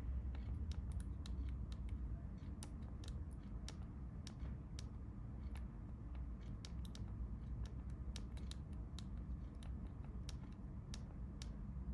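Light, irregular plastic clicks, one to three a second, of a Nokia 3310's keypad buttons being pressed, over a steady low hum.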